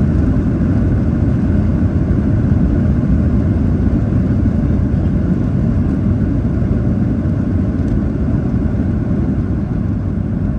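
Cabin rumble of a Boeing 737-800 rolling out after landing: engine and wheel noise on the runway, a loud steady rumble that eases slightly as the airliner slows.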